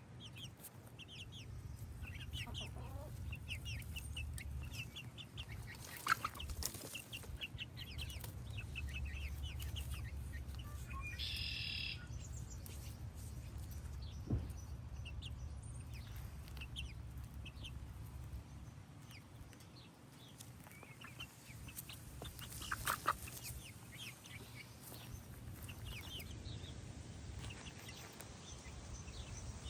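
Birds calling, with many short repeated chirps throughout and one longer call about a third of the way in, over a low rumble.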